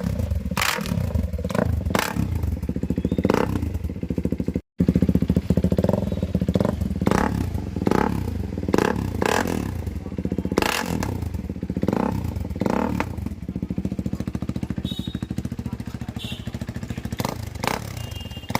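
KTM Duke 390's single-cylinder engine running through an Akrapovic full-system exhaust, with throttle blips and repeated sharp cracks from the exhaust.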